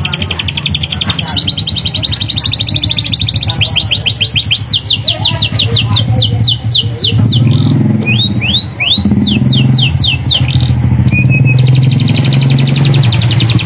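Domestic canary singing loud, sharp rolls of very fast repeated notes that slow into separate sweeping whistled notes about halfway through, then break back into a fast roll near the end. A steady low hum runs underneath.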